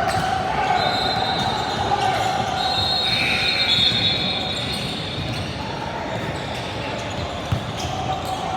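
Basketball game sound in a gym: a ball bouncing on the court amid the voices of players and spectators, with a single sharp thud about seven and a half seconds in. A thin high tone comes and goes in the first half.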